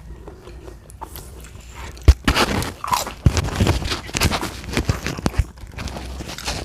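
Close-miked eating: biting and chewing with crisp crunching, dense from about two seconds in, just after a sharp knock.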